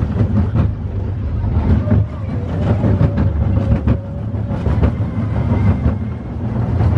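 The Barnstormer junior roller coaster's train running along its steel track, heard from aboard: a steady low rumble of wheels with scattered clacks.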